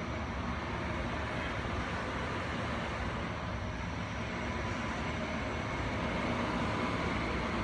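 Steady vehicle rumble with a faint, even hum.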